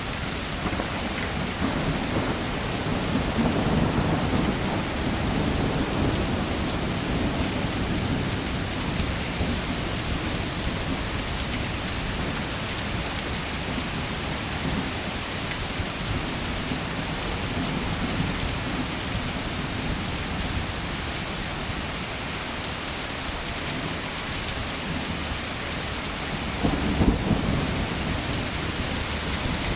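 Steady heavy rain with low rolls of thunder, one a few seconds in and a louder one near the end.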